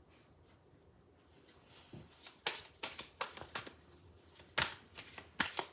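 A deck of oracle cards being shuffled and handled. After a quiet start, a run of short, sharp card clicks and slaps begins about two seconds in.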